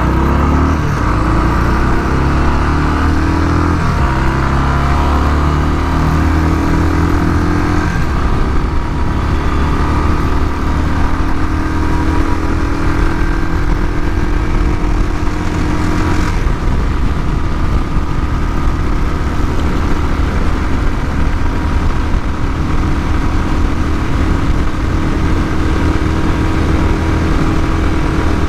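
Royal Enfield Bullet 350 Classic's single-cylinder engine accelerating hard in a drag run. Its pitch climbs and drops back at gear changes about 4, 8 and 16 seconds in, then holds a steady high note at top speed.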